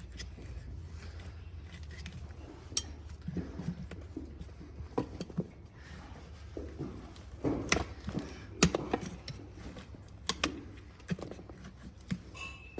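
Hoof nippers cutting through a horse's overgrown, hard, dry hoof wall: irregular sharp snaps and cracks every second or two, the loudest about eight and a half seconds in.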